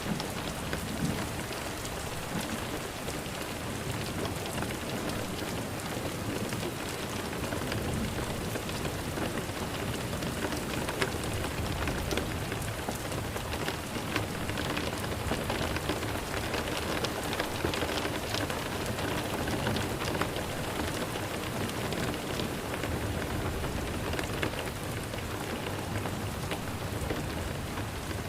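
Steady rain falling on a surface: an even hiss with scattered sharp drop taps.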